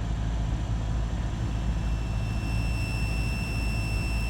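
Light aircraft's piston engine droning steadily at reduced power on final approach, heard in the cockpit with a hiss of air noise. A thin steady high tone comes in about two seconds in.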